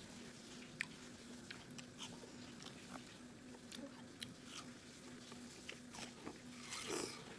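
Someone eating watermelon: soft biting and chewing with scattered small mouth clicks, and a brief louder noisy burst near the end, over a faint steady hum.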